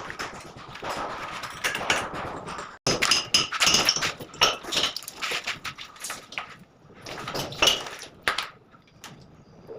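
Tile and masonry work on a urinal: irregular knocks, taps and scrapes of hand tools on ceramic tile and cement. The sound breaks off abruptly just before three seconds in, then resumes.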